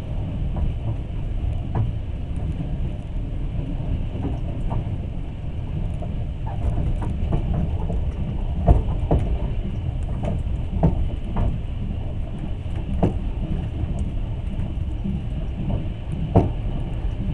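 Passenger train running, heard from inside the carriage: a steady low rumble with irregular knocks and clacks of the wheels on the track, the loudest about halfway through and near the end.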